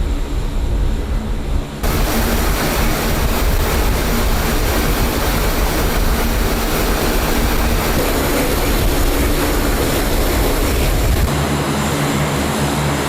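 C-130J Super Hercules turboprop engines running, a loud, steady rush of aircraft noise. The sound changes abruptly about two seconds in and again near the end.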